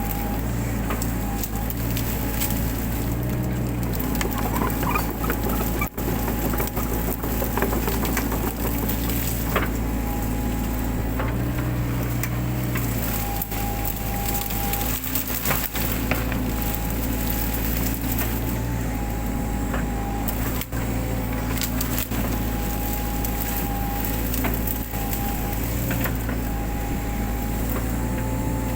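Mini excavator engine running steadily, its pitch rising and falling now and then as the hydraulics take load, with an on-and-off hydraulic whine. Frequent cracks and snaps of brush and woody undergrowth being broken run through it.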